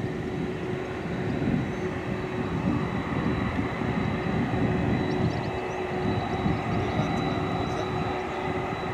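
Jet airliner engines running: a steady low rumble with a thin, steady high whine.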